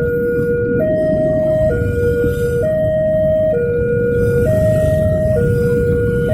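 Electronic level-crossing warning alarm sounding a steady two-tone hi-lo signal, switching pitch about once a second, over a loud low rumble.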